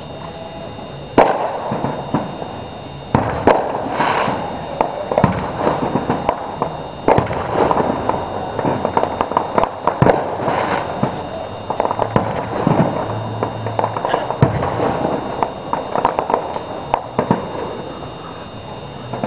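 Fireworks going off in a run of sharp bangs, the first about a second in, mixed with bursts of rapid crackling.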